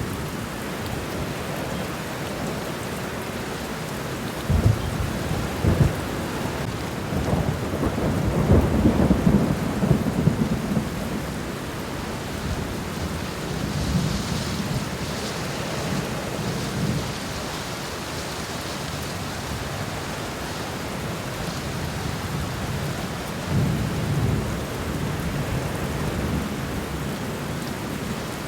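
Steady rain falling on the ground, with deep low rumbles swelling up three times: briefly about five seconds in, longer about nine seconds in, and again near the end.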